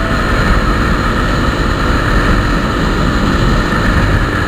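Steady wind rush and engine noise heard from a moving motorcycle, even throughout.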